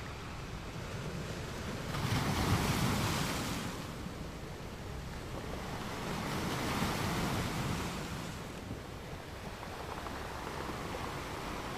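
Wind blowing across the microphone in gusts, rising and falling twice.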